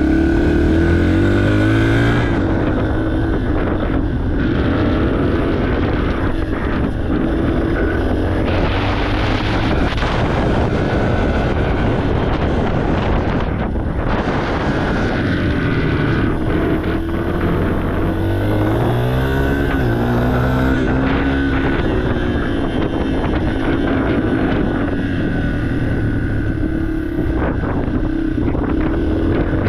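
2023 Yamaha TTR 230's single-cylinder four-stroke engine running while the bike is ridden, its pitch rising and falling again and again as the throttle opens and closes.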